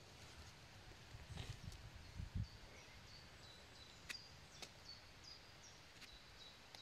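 Near silence in woodland: a small bird repeats short high chirps about twice a second through the second half, with a few faint clicks and rustles of handling.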